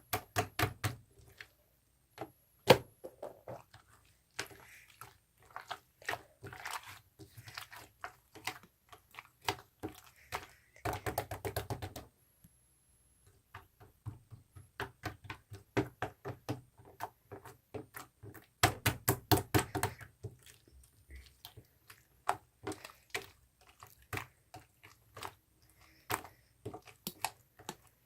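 Homemade slime being squeezed, pressed and poked by hand, giving quick runs of small clicking pops with dull thunks, in bursts separated by short pauses.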